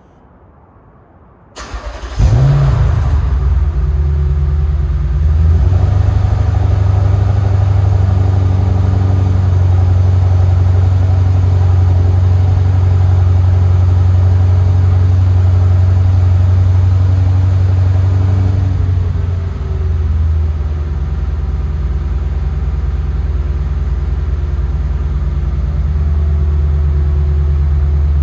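Lexus LS460's 4.6-litre V8 breathing through a Fujitsubo SuperTi titanium exhaust, cold-started: it cranks and catches about a second and a half in, flares briefly, then holds a high cold-start fast idle. About two-thirds of the way through the idle drops and settles to a lower, steady note.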